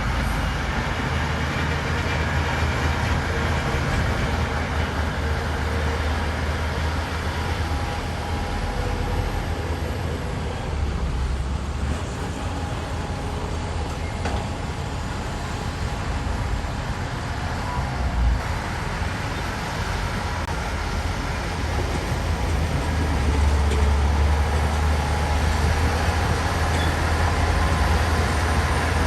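Diesel engines of heavy earthmoving machinery, a bulldozer and dump trucks, running steadily under load, with a single knock about two-thirds of the way through and the engine noise swelling louder near the end.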